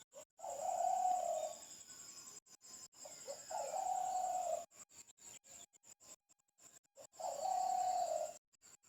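A bird giving three long, level, hooting calls of about a second each, a few seconds apart.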